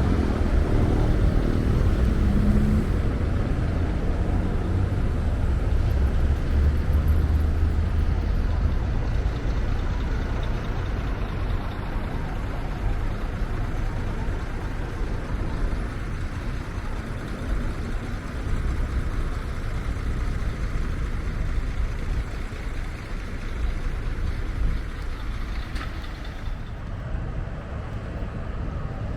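Steady city road traffic: a low rumble of passing cars and heavier vehicles with tyre noise, slowly fading.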